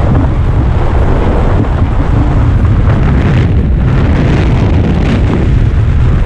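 Heavy wind buffeting the camera microphone during a skydive: a loud, steady rushing rumble.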